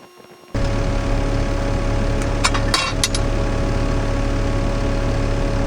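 Diesel engine of a CAT 299D3 XE compact track loader running with its Fecon mulcher head, starting suddenly about half a second in as a loud, steady drone. A few short metallic clinks come about halfway through.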